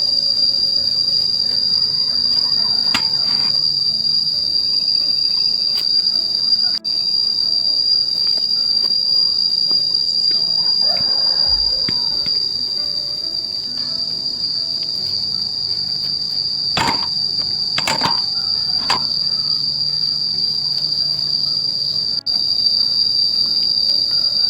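Insect chorus giving one steady high-pitched buzz, with a few short sharp knocks: one a few seconds in and three close together past the middle.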